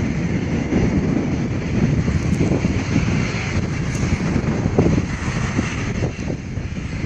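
Jet airliner engines running, a loud rumbling roar that eases off slightly near the end.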